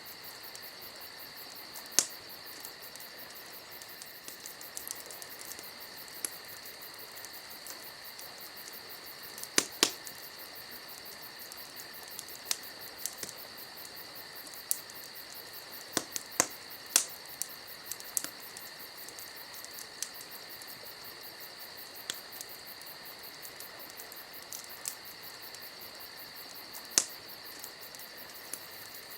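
Campfire crackling, with scattered sharp pops of burning wood, the loudest about 2 seconds in, near 10 seconds, around 16 to 17 seconds and near 27 seconds, over a steady high chirring of insects.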